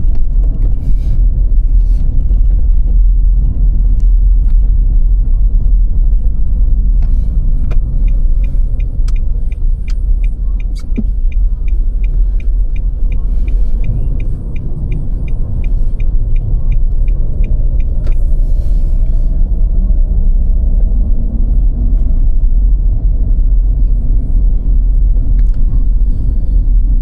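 Car driving on snowy roads: a steady low rumble of tyres and engine, with a quick, regular ticking for about ten seconds in the middle.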